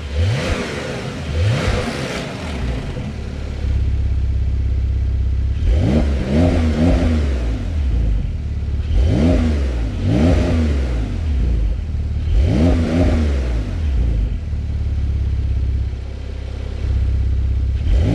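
Porsche 992's flat-six engine at idle, blipped several times in quick rises and falls of revs, with the sport exhaust valve opened to make it louder.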